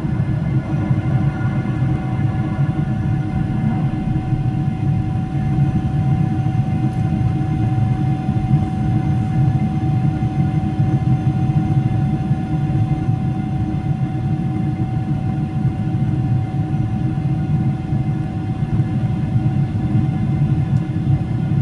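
Steady cabin noise of a Boeing 777-300ER in flight: an even, deep rumble of airflow and its GE90 engines, with a faint steady tone above it.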